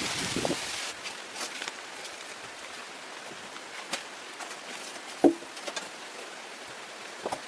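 Steady rain hiss that cuts off about a second in, followed by quiet outdoor ambience with scattered light taps and knocks; one louder knock comes a little past the five-second mark.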